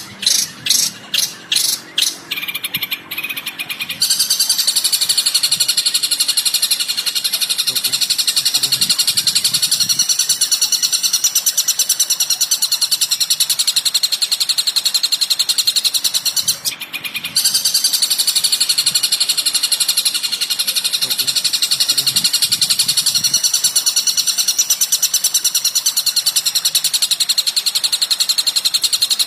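Recorded bird calls of the kind used as masteran training material for songbirds: first a run of separate sharp high notes, about three a second, then from about four seconds in a fast, unbroken high chatter that pauses briefly a little past the middle and starts again.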